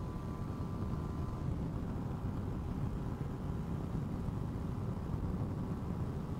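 Yamaha sport motorcycle held at high revs at about 125 km/h. Its engine is mostly covered by a steady, heavy wind rumble on the microphone.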